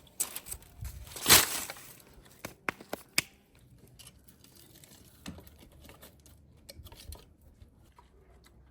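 Crinkling and rustling handling sounds with a few sharp clicks, loudest in one burst about a second in, then fading to quieter scattered rustles.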